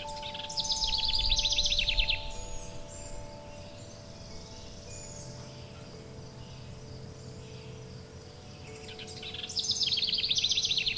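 Songbird singing twice, a fast trill of rapidly repeated notes about half a second in and again near the end, over soft, long-held wind-chime tones.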